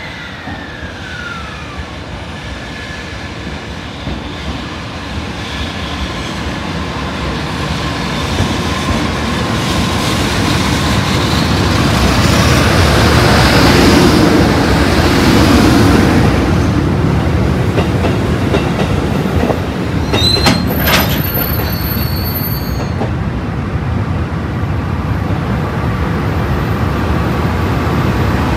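EH500 electric locomotive hauling a freight train past, its noise building to the loudest point about halfway through and then running on steadily. A short falling whine comes at the start.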